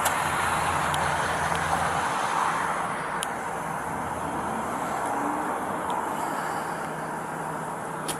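Idling SUV engines heard as a low steady hum over a steady noise. The hum fades about two seconds in, and there are a few faint clicks.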